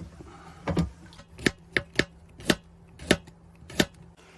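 Sharp knocks from kitchen food preparation, about eight of them, spaced unevenly over about three seconds.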